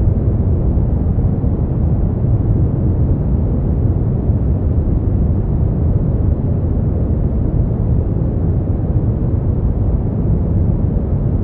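Steady, unbroken sleep-aid noise, deep and rumbling, with most of its weight low down and no bright high hiss, though it is billed as white noise.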